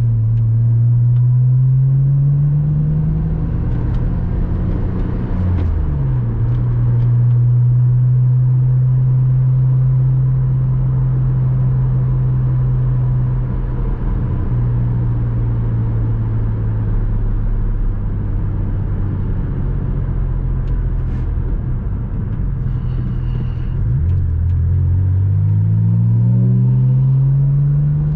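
Porsche Boxster 986's flat-six engine under way: the engine note climbs for the first few seconds, drops sharply about six seconds in as it shifts up, then holds a long steady cruise, and near the end it drops and climbs again as the car accelerates.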